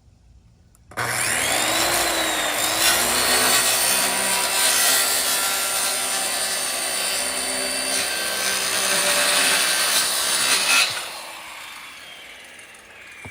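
Electric power tool working 5/8-inch birch plywood: the motor spins up with a rising whine about a second in, runs steadily against the wood for about ten seconds, then is switched off and winds down with a falling whine.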